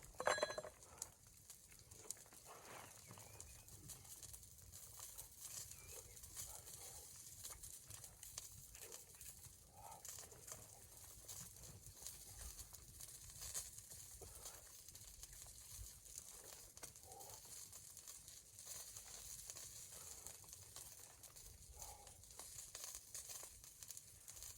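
Near silence: faint outdoor ambience with a steady soft hiss and occasional quiet rustles.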